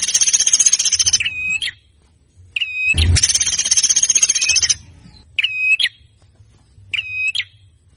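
A songbird singing a harsh, rapid rattling trill about a second and a half long, twice. Each trill is followed by short, clear whistled notes that rise and fall, with pauses between the phrases.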